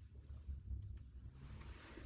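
Quiet desk-side room sound during a study session: a low steady rumble, with a soft rustle swelling near the end.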